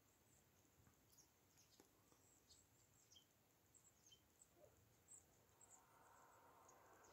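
Near silence with faint, scattered chirps of small garden birds.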